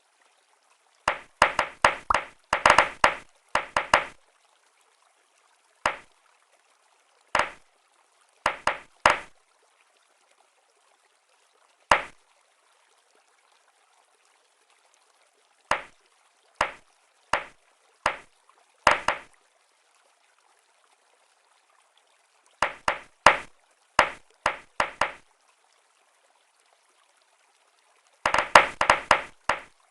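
Small hard clicks and clacks from diecast toy cars being handled, coming in short quick clusters with silent gaps between, the busiest flurries about a second in and near the end.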